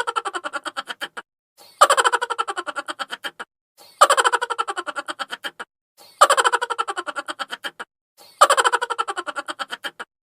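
Sped-up, high-pitched chipmunk-style laughter: a rapid run of "ha-ha-ha" pulses that starts loud and falls in pitch as it fades. The same short laugh repeats about every two seconds, with a brief gap between.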